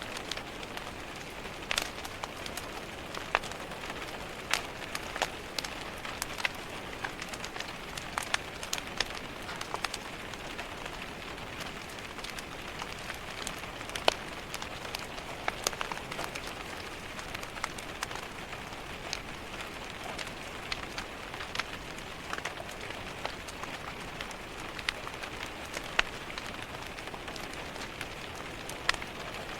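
Steady rain hiss with a crackling wood fire: irregular sharp pops and snaps, a few standing out loudly, over the even patter.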